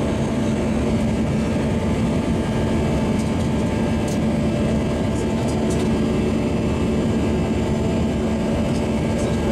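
Inside the cabin of an Airbus A320 during the takeoff: a steady, loud rush of jet engines and airflow, with an even hum underneath.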